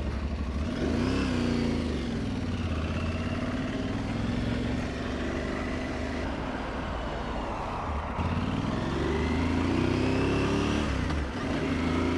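Aprilia Tuareg 660 parallel-twin engine accelerating on the road, with steady wind and road noise. Its note rises about a second in, holds, dips briefly about eight seconds in, then climbs again.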